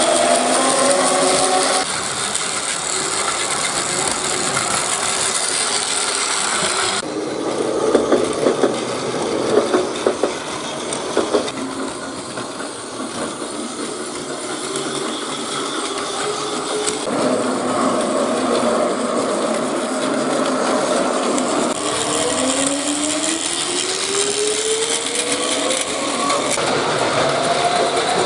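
Battery-powered Plarail toy trains running on plastic track, their small motors and gearboxes whirring and clattering, in several clips that change abruptly. A whine rises in pitch as a train speeds up, about 22 seconds in.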